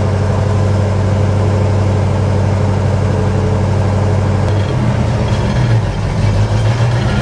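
Pontiac 400 V8 in a 1968 GTO running with a mild cam, heard through its exhaust. The note holds steady, then shifts and wavers from about two-thirds of the way through.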